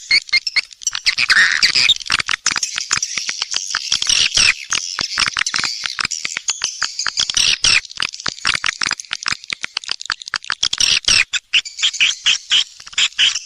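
Swiftlets twittering in high chirps. Through the middle comes a long run of rapid, close-set clicks. This is a swiftlet lure call, played to draw the birds into a nest house.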